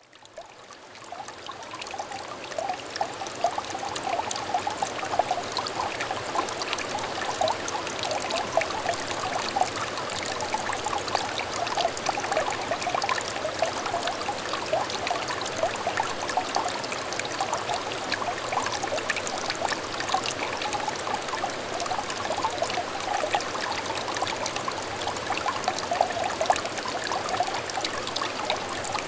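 Small stream trickling and burbling over stones, a steady babble of small splashes and gurgles. It fades in over the first couple of seconds.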